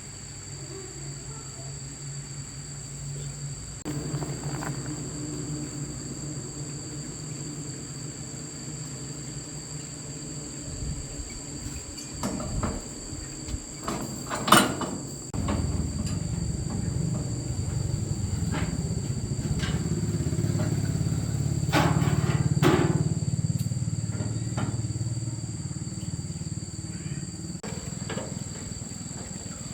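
Insects trilling steadily throughout, over a low hum that grows louder about halfway through. Scattered knocks and clatters from work on a machine break in, the sharpest a single knock about halfway through.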